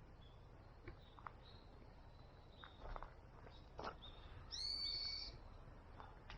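A bird gives one short call, with a clear ringing tone, about two-thirds of the way in. It sits over faint outdoor background with a few soft clicks before it.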